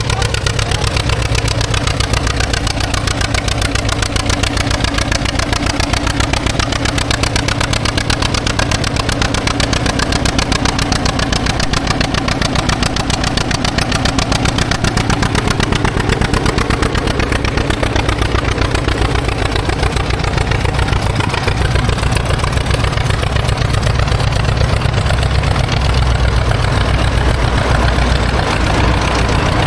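Tractor engine running steadily, its firing pulses fast and even.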